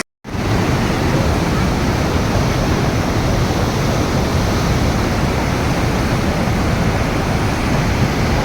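Swollen Teesta river in flood, a loud steady rush of fast-moving water with a heavy low rumble, after a split-second dropout at the very start.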